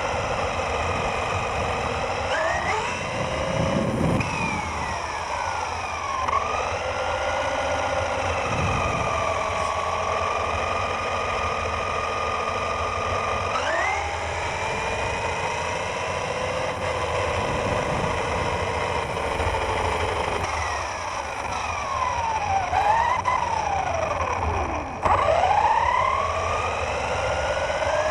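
Radio-controlled car's motor whining, its pitch rising and falling over and over as the car speeds up and slows. Several times near the end the whine drops sharply and climbs straight back up.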